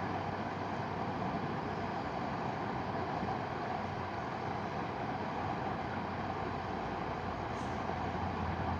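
Mountain river rushing, a steady, even noise.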